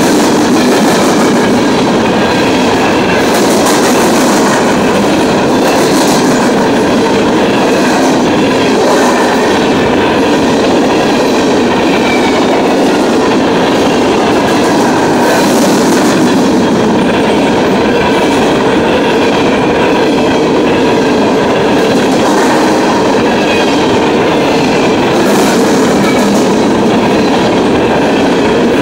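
CSX freight train's open-top hopper cars rolling past close by at speed: a loud, steady rush of steel wheels on rail, with sharp clicks every second or two as the wheels pass over the track.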